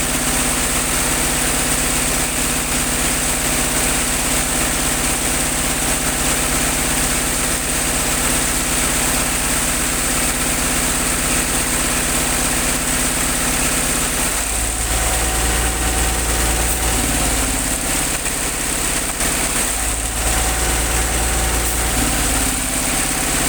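Engine-driven air compressor running steadily during a borewell wash. About two-thirds of the way in, a deep low rumble comes in and the running pitch shifts; the rumble eases briefly and then returns.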